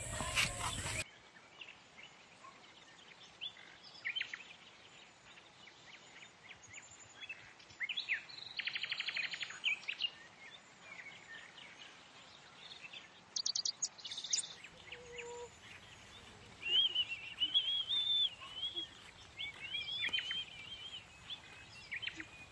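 Birds chirping and calling over quiet background noise, with a buzzy trill about eight seconds in and a warbling song in the last few seconds.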